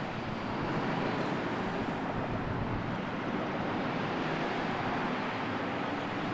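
Steady rush of sea surf and wind, an even wash of noise with no distinct breaks.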